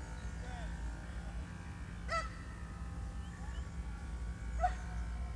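Two short bird calls, about two seconds in and again near the end, over a steady low rumble, with a few faint chirps between them.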